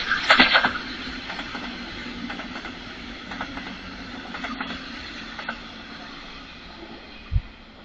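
Train on the line, its wheels clattering loudly at first, then its running noise and low hum fading away as it recedes. A short low thump near the end.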